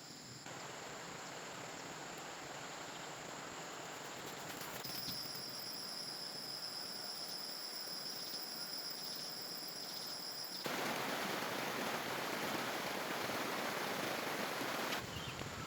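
Outdoor rural background noise with a steady high insect drone, the whole sound changing abruptly about every five seconds and getting louder about two-thirds of the way through.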